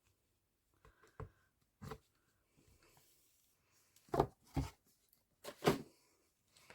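A few soft knocks and taps of things being handled and set down on a work table, loudest about four and nearly six seconds in.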